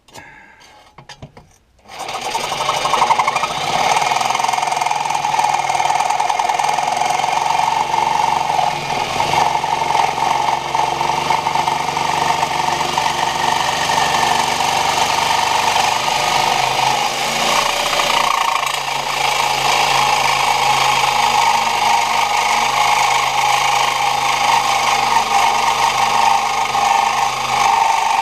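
A reciprocating saw starts about two seconds in and runs without a break, cutting with a steady whine and a rasping hiss.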